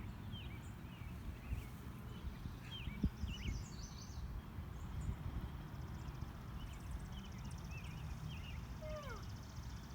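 Songbirds chirping and calling in short scattered notes, with a fast high trill in the second half and a falling call near the end, over a steady low rumble. A single sharp knock about three seconds in.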